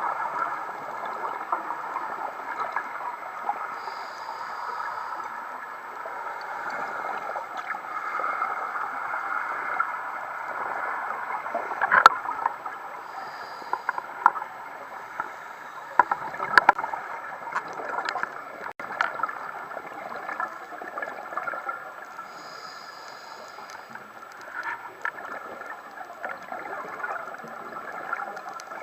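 Underwater ambience on a coral reef dive: a steady watery rush with scattered sharp clicks and crackles, the loudest about twelve seconds in, and a few brief higher hisses.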